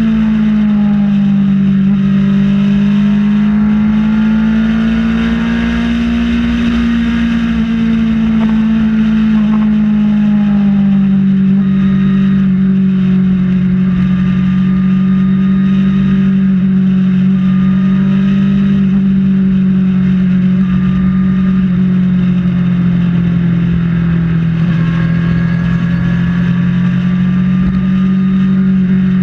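Kawasaki Ninja ZX-6R's inline-four engine running steadily at highway cruising speed, its pitch easing slightly lower about ten seconds in, over a steady low rushing noise.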